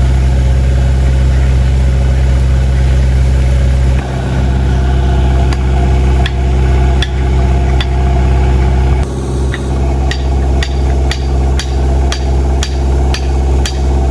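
An engine running steadily, with sharp knocks that start about a third of the way in and settle into about two a second in the second half.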